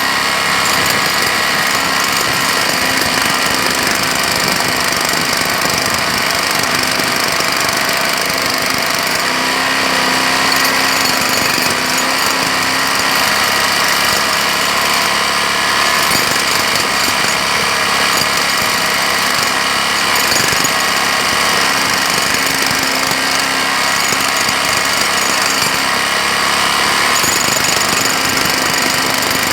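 Jackhammer hammering continuously, with a rapid, unbroken run of blows at a steady loud level.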